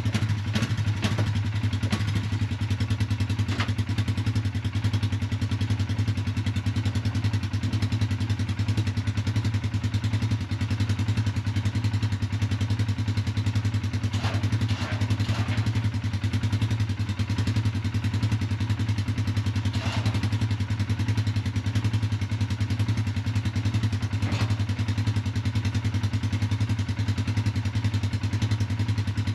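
Polaris Sportsman 570 four-wheeler's single-cylinder engine idling steadily, with a few scattered metallic clanks from the plow being hooked up.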